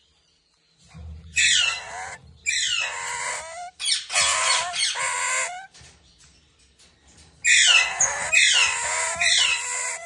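Rosella parrot giving loud, harsh squawking calls: a run of four, then, after a pause of about two seconds, three more.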